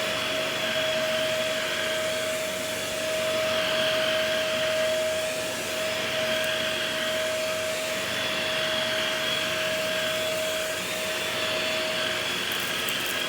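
Shark vacuum cleaner running on carpet: a steady motor whine over rushing airflow, swelling and easing slightly as it is worked across the pile.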